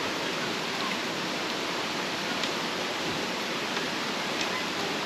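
Steady rushing of a mountain stream flowing over rocks, with a few faint ticks about halfway through and near the end.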